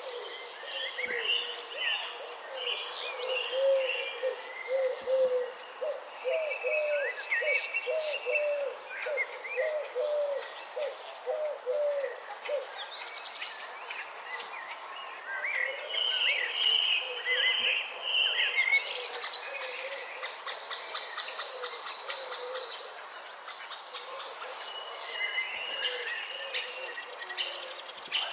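Forest and garden ambience: a steady, high-pitched insect drone under many birds singing and calling, with a lower call repeated about twice a second through the first half. The insect drone fades out near the end.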